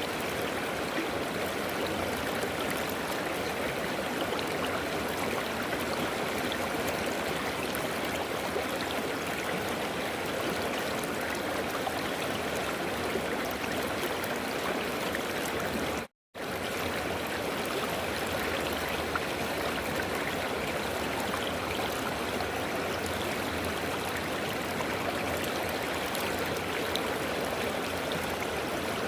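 A river flowing, a steady even rush of water, which cuts out to silence for a split second about halfway through.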